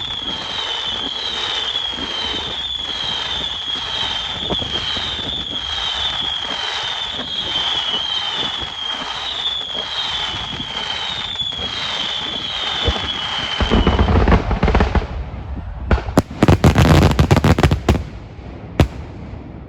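Fireworks display: dense crackling and popping under a high falling whistle that repeats about every three quarters of a second. About two-thirds of the way through, the whistle stops and heavy, loud booms of large shells take over, ending with one last sharp bang.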